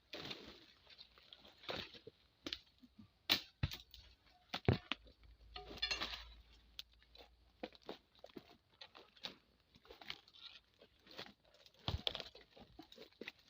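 Irregular sharp chops, cracks and tearing from hard oil palm fronds being hacked and torn off during harvest, with a longer crackling tear about six seconds in.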